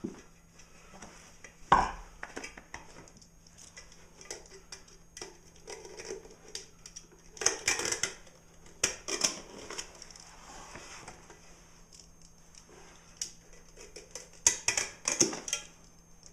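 Knife cutting and prying through a 15-inch subwoofer's glued cone and spider: irregular scraping and clicking in bursts, with one sharp knock about two seconds in.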